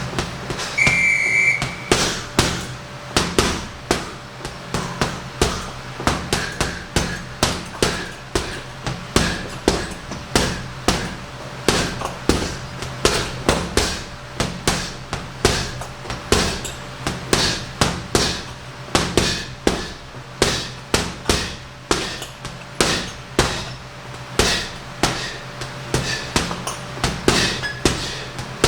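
Punches landing on a heavy punching bag in quick combinations, several sharp strikes a second in flurries with short gaps between them. A short electronic beep sounds about a second in.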